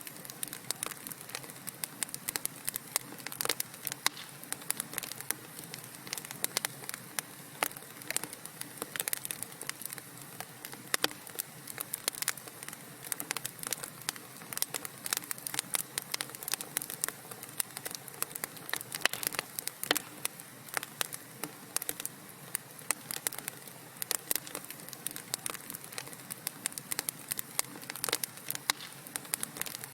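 Wood fire crackling in a fireplace: a continuous stream of small, irregular pops and snaps over a soft hiss.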